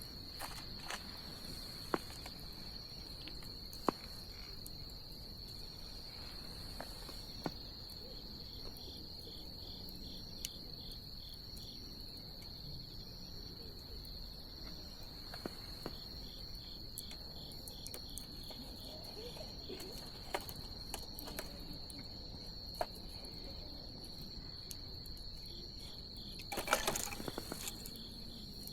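Wood fire crackling with scattered sharp pops a few seconds apart and a short flurry of crackles near the end, over a continuous high-pitched trill of insects.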